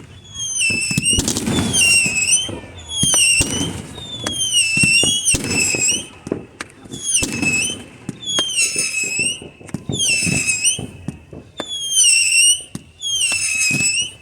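Fireworks going off: repeated booms and crackles. Over them, a high whistle that dips and rises again repeats about once a second.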